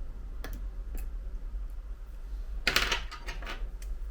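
Bottom loudspeaker module being pried out of an iPhone 11 Pro Max's frame: a few light clicks, then a short, louder scraping clatter near three seconds in, followed by a couple more small clicks.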